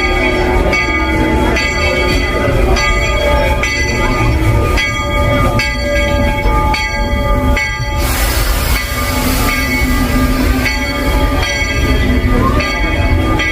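Steam locomotive's bell ringing in a steady rhythm, each strike sustaining a ring. About eight seconds in, a loud burst of steam hiss from the engine cuts in over the bell.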